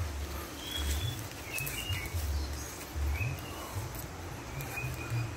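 Small birds chirping in short high calls scattered through the stretch, over irregular low rumbling thuds from the moving, hand-held phone.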